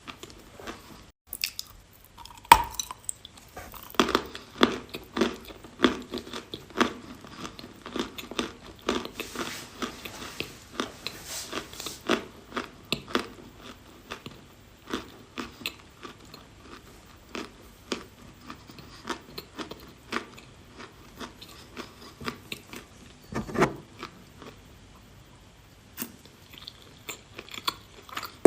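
A person biting and chewing a piece of dry chalk: a sharp bite about two and a half seconds in, then a long run of crackly crunches as it is chewed, thinning out, with another bite near the end.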